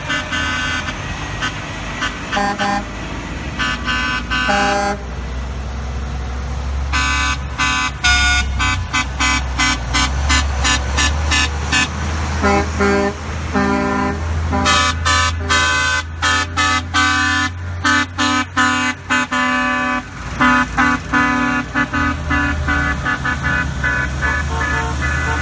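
Trucks in a parade honking their horns over and over, many short toots and some longer blasts, over the steady low rumble of passing truck engines.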